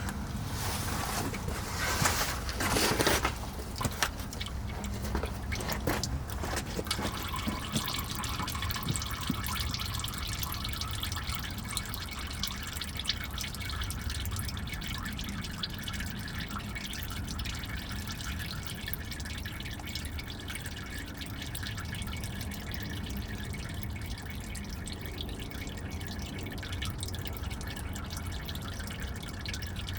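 Used engine oil draining from a 7.3 Powerstroke diesel's oil pan into a drain pan, a steady trickle with scattered drips. A few louder knocks and rustles come in the first few seconds.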